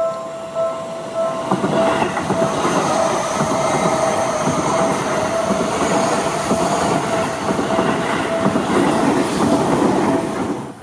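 A level-crossing warning bell dings over and over. From about a second and a half in, a Seibu 4000-series electric train runs past close by with a loud, dense rumble and clatter of wheels on rail. The bell keeps ringing under the train, and the sound cuts off suddenly near the end.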